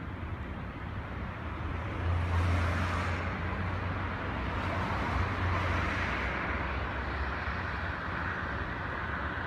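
Steady road vehicle noise with a low engine rumble, growing louder about two seconds in and easing off after about seven seconds.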